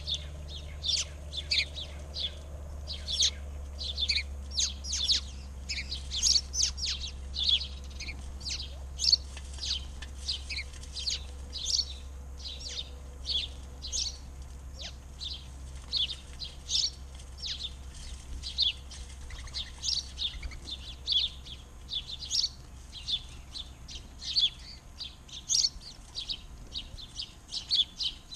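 Many small birds chirping in quick, overlapping short notes, without letup, over a low steady hum that fades away over the second half.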